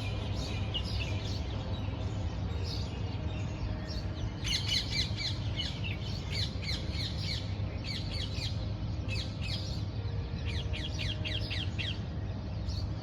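Birds chirping, with rapid clusters of short, falling chirps over a steady low rumble.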